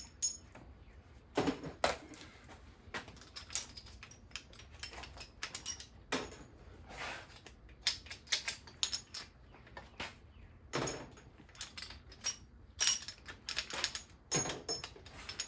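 Hand tools and loose bolts clicking and clinking on metal, in irregular light knocks, as stuck bolts with cupped washers are worked out of an engine during teardown.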